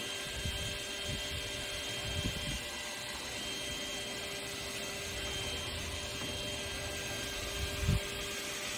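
An electric motor-driven appliance runs steadily, with a constant hum and a rush of air. There is a soft low thump near the end.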